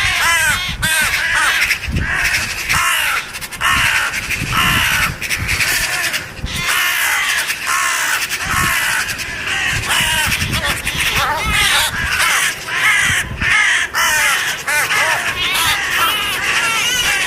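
A flock of corvids calling harshly over one another without pause, in the alarm chorus of birds mobbing a raptor that has seized one of their own. Several dull thumps come through, the loudest about two seconds in.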